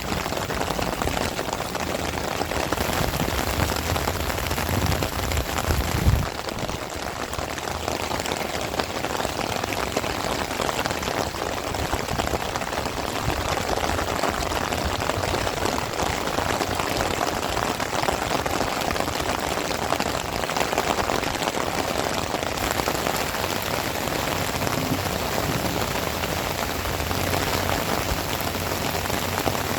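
Heavy rain falling steadily, a dense, even hiss of drops. A low rumble builds during the first few seconds and ends in a short low thump about six seconds in.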